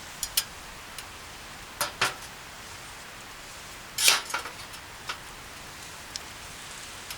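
A handful of light clinks and knocks, the loudest a short cluster about four seconds in, over a steady hiss.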